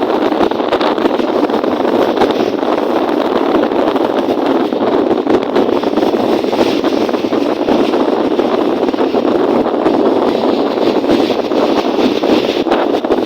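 Steady rushing of wind and lake waves on a windy day, a loud continuous noise with no distinct splashes or tones.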